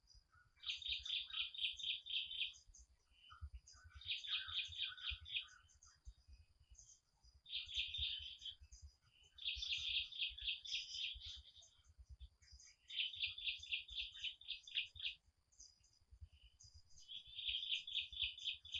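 A songbird singing a series of rapid trilled phrases, each one to two seconds long with about ten quick notes a second, repeated about six times with short pauses between.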